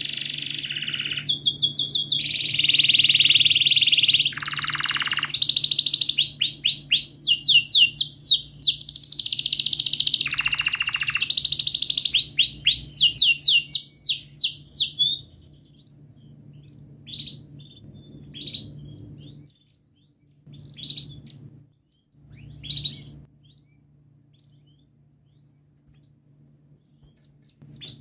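Domestic canary singing a long song of rolls and fast rapid-fire trills for about fifteen seconds. It then gives only a few short separate chirps.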